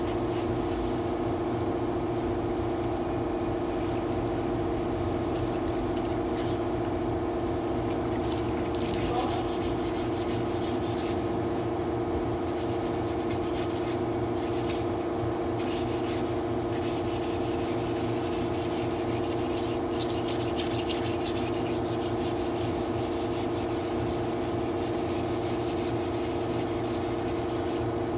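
Power sander running steadily against a vehicle body panel during dent and paint repair: a constant motor hum with a rubbing, scraping noise over it.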